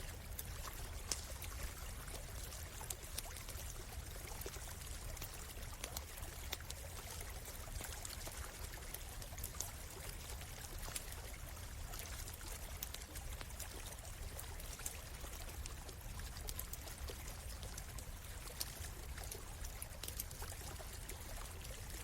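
A small stream running steadily, with scattered sharp crackles and pops from a wood campfire.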